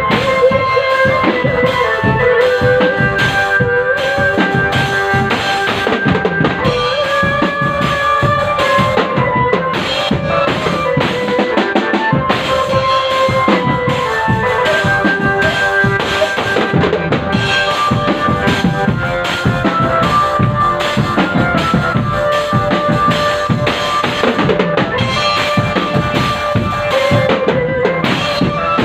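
Drum band playing: snare and bass drums beating a steady, busy rhythm under a loud melody line of held notes.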